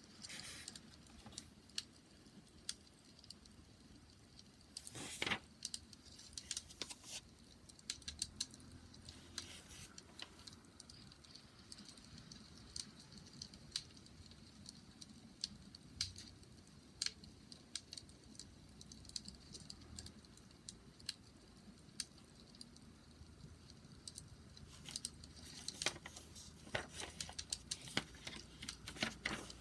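Wood fire crackling: irregular pops and snaps over a soft low rumble, with denser clusters of crackling about five seconds in and again near the end.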